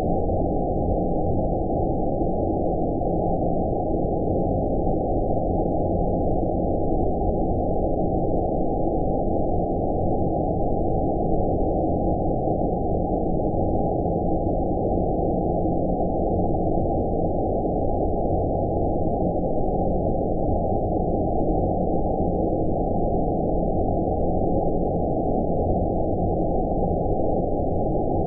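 Steady, unchanging low rumbling noise, cut off above about 1 kHz: synthetic 'outer space' ambience, a filtered white noise made as a sleep sound.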